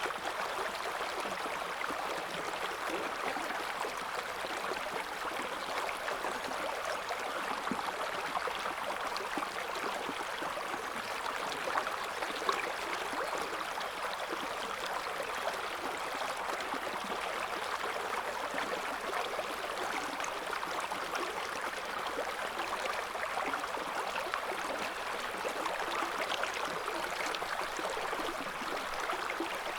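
River water flowing over stones, a steady rush with small splashes and gurgles.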